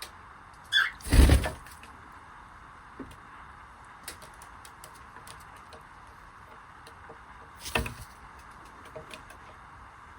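A short falling chirp from a cockatiel, then a loud thump and rustle about a second in. Scattered small clicks and taps follow, with another thump near the end.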